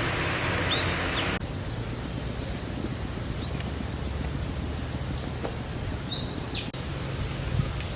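Forest ambience: birds chirping and whistling in short calls over a steady low background noise. A hiss present at the start cuts off suddenly about a second and a half in.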